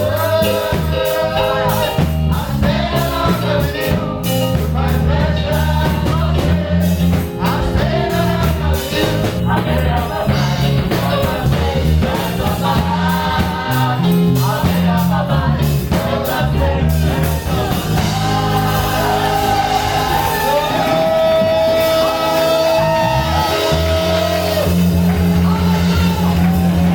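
Gospel praise-and-worship music: voices singing over a band with a heavy bass line, with one long held sung note about three quarters of the way through.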